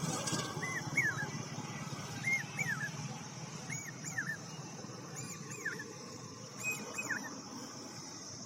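Common hawk-cuckoo calling its repeated 'brain-fever' phrase: a short run of slurred whistled notes, given five times about a second and a half apart.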